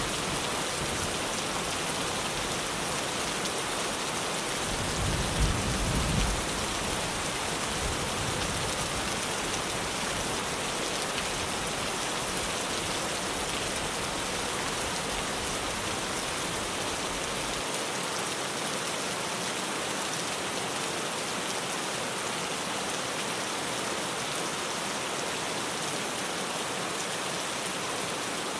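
Rain falling steadily on a tin roof, a dense, even hiss of drops, with a brief low rumble of thunder about five seconds in.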